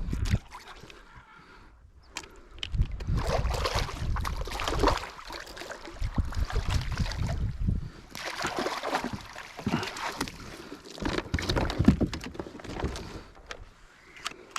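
Wind buffeting the microphone and water splashing, in irregular surges lasting a couple of seconds each.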